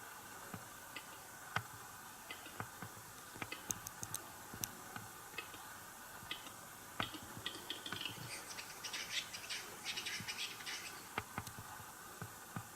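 Male western capercaillie displaying: a series of dry clicks that quicken, then a scraping, hissing phrase lasting a few seconds, about eight seconds in.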